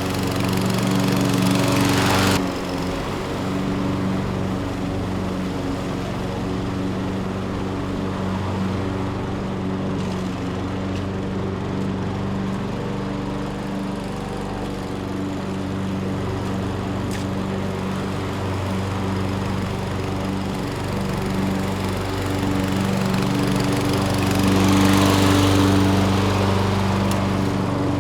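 Toro Recycler walk-behind mower's Kohler single-cylinder four-stroke engine running steadily under load while mowing. A rushing noise and a rise in level come in for the first two seconds and again about 24 to 27 seconds in.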